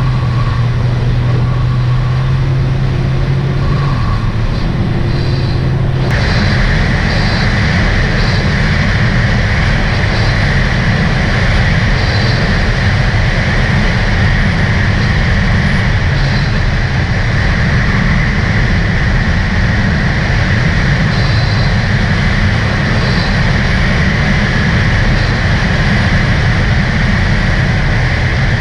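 2018 Sea-Doo RXT-X 300 personal watercraft running under way, a steady engine sound mixed with rushing water and wind. About six seconds in the sound changes abruptly, a brighter hiss joining in and holding.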